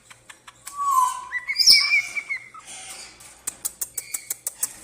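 A pet parrot calling with short whistled notes, one of them a louder squawk, then a quick run of sharp clicks with another short whistle among them.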